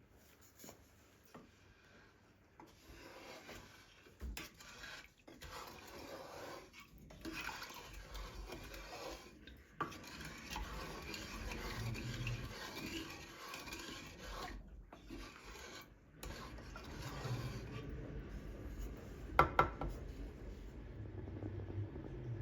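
Kitchen handling sounds: continuous rubbing and scraping of utensils and dishes, with two sharp clinks close together about three seconds before the end.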